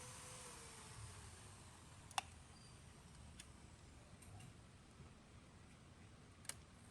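Near silence broken by a few faint, sharp clicks, the clearest about two seconds in and another near the end.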